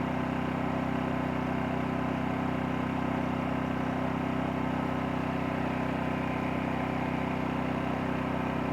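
Champion 2000-watt dual-fuel inverter generator (model 100900) running steadily at low speed in eco mode, an even hum with no change in pitch or level. Fresh off its first start, it runs quietly.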